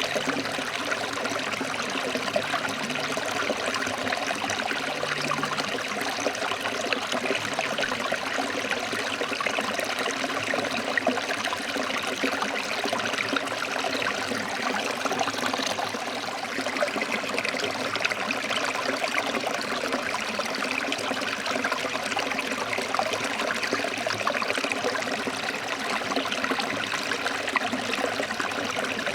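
Stream water running steadily over rocks, an even, continuous rush.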